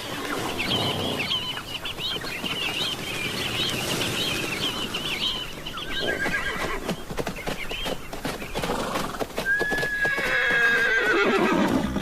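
A flock of Namaqua sandgrouse calling, a dense chatter of quick chirps, over scattered knocks. Near the end a feral horse whinnies: one long call that falls steadily in pitch.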